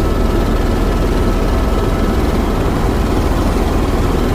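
Tour helicopter in flight: steady engine and rotor noise, with a low, even throb and a faint constant whine above it.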